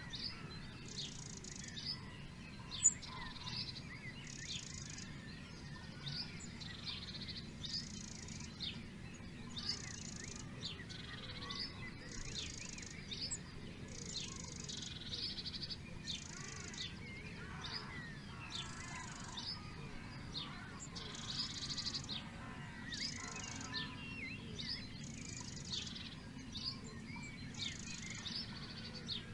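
Birds calling and singing, with many short sharp chirps and a high, buzzy phrase repeating about every one and a half to two seconds, over a steady low background rumble. There is a single brief tick a little under three seconds in.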